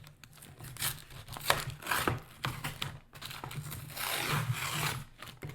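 Takeout food packaging crinkling and rustling as it is handled and opened, in irregular crackles with a longer rustle near the end.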